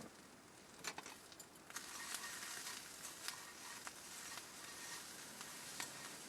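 Food sizzling in a hot pan, the sizzle starting about two seconds in and carrying on steadily with small crackles and pops.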